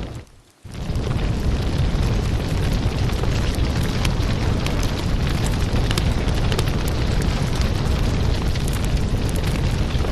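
Wood fire burning, with a steady low rumble and frequent sharp crackles and pops. The sound cuts out for about half a second near the start, then resumes.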